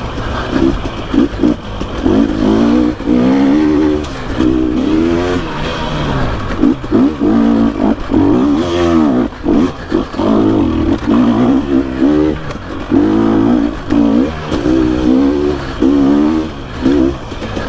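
2021 GasGas EC 300 two-stroke dirt bike engine revving hard and dropping off over and over as the throttle is worked, with short lifts between pulls.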